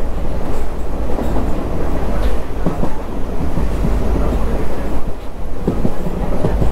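Passenger train running along the track, heard from on board: a steady rumble of the coaches with irregular wheel clicks over the rails.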